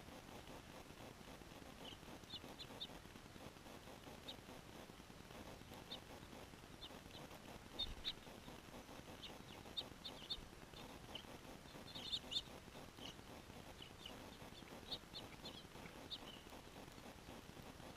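Small birds giving short, high chirps, faint and scattered, some in quick clusters of two or three. A soft low thump about eight seconds in.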